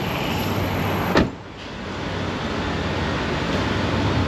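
A car door shutting with a single loud thump about a second in, over a steady low hum of a vehicle.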